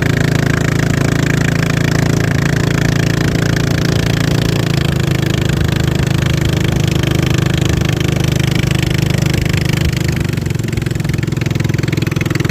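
Racing boat's motor running steadily at high power, with a slight dip in level about ten seconds in.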